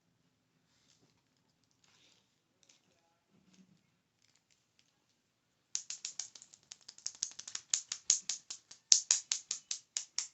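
Faint handling rustles and ticks, then about halfway through a fast, crisp run of clicking taps, roughly eight or nine a second, growing louder toward the end: ASMR tapping or clicking on small objects.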